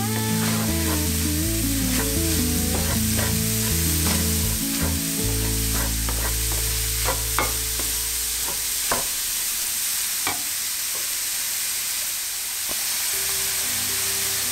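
Cauliflower rice and mushrooms sizzling as they stir-fry in a stainless steel frying pan. A wooden spatula scrapes and knocks against the pan now and then, mostly in the first ten seconds.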